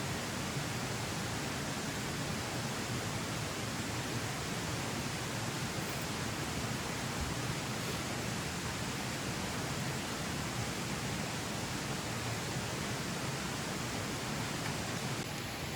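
Steady, even rushing noise with no distinct events; its tone shifts slightly and it drops a little in level near the end.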